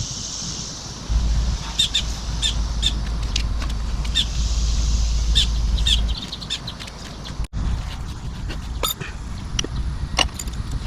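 Birds chirping in short, repeated calls over a steady low rumble, with a brief dropout about seven and a half seconds in.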